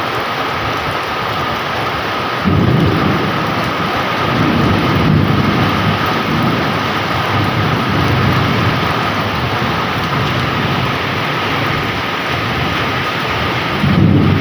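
Heavy rain pouring steadily. Thunder breaks in suddenly about two and a half seconds in and rumbles on for several seconds, and a second peal starts near the end.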